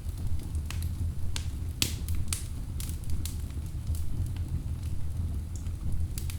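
Wood logs burning in a fireplace: a steady low rumble of flame with irregular sharp crackles and pops, the loudest pop about two seconds in.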